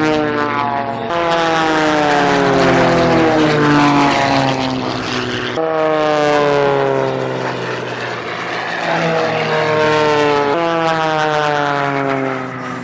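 Propeller airplane engine at an air show, its tone falling steadily in pitch and then jumping back up, three times over.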